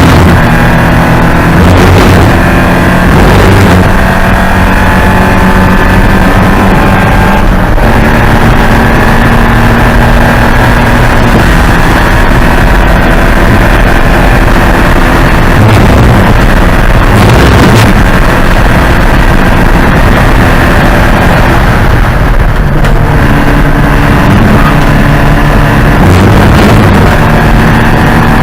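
Porsche 944 race car's four-cylinder engine at racing speed, loud over a constant noise haze. Its note climbs steadily through long stretches and drops abruptly several times.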